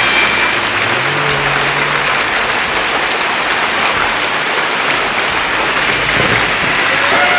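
Floodwater rushing down a street in a loud, steady roar of water, a flash flood from hurricane rains.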